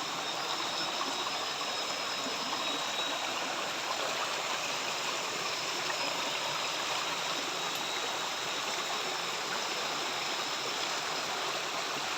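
Steady rush of a river flowing, with one or two faint, thin high tones over it in the first few seconds.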